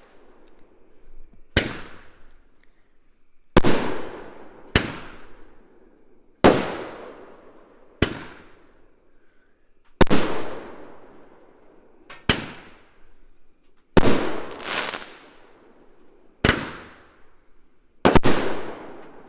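Imperial Dragon Strike Force 200-gram firework cake firing: a dozen loud aerial shell breaks, one every second and a half to two seconds, each trailing off in a fading rumble. Some come as quick doubles.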